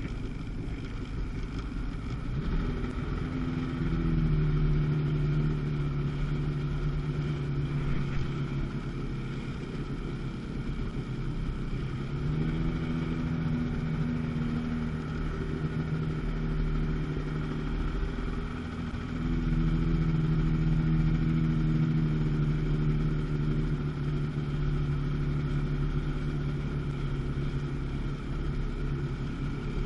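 Two-stroke jet ski engine running on the water, its pitch rising and holding steady three times, about 2 seconds in, near the middle, and about two-thirds through, easing off in between.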